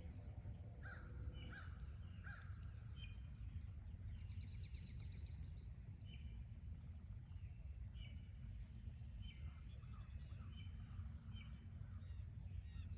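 Several wild birds calling: short repeated notes, with a brief trill about four seconds in, over a steady low rumble.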